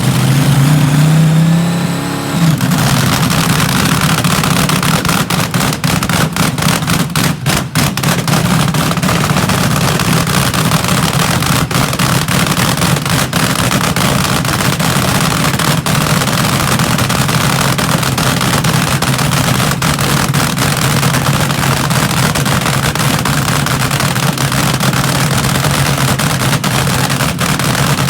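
Front-engine dragster's engine revving up with a rising pitch for about two seconds, then running loud and steady.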